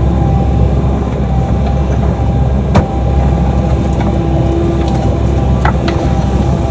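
Excavator engine running steadily under load during digging, with one sharp knock about three seconds in and two lighter knocks near the end.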